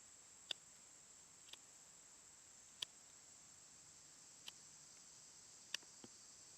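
Near silence with a steady faint hiss, broken by about five short, scattered ticks at irregular intervals.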